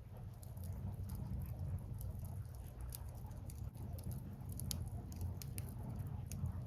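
Firewood burning, crackling with scattered sharp pops and ticks over a low steady rumble.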